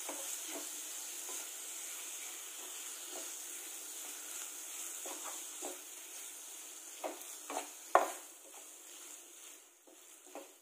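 Chopped tomato-and-onion masala frying in oil in a non-stick pan, sizzling steadily while a wooden spatula stirs and scrapes through it. A sharp knock comes about eight seconds in, and the sizzle grows quieter near the end.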